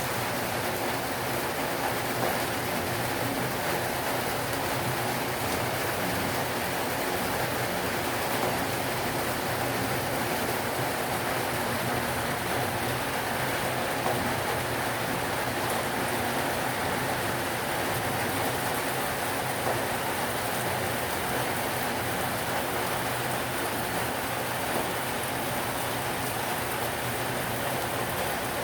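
Heavy rain falling steadily, with the patter of drops striking surfaces.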